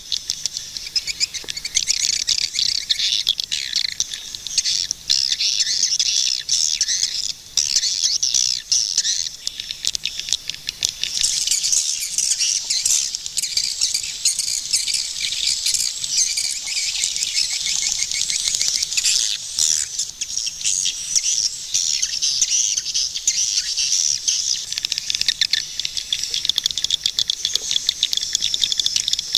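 Swiftlets calling: a dense, unbroken twittering of high chirps and quick ticking calls overlapping one another, growing fuller and louder from about eleven seconds in.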